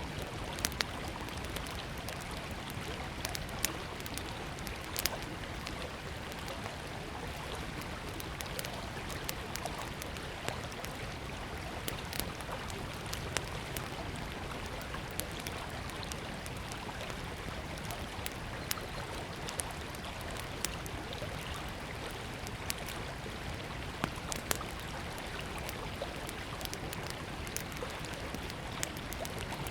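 A river flowing steadily, with a small wood campfire crackling in sharp, irregular pops over it.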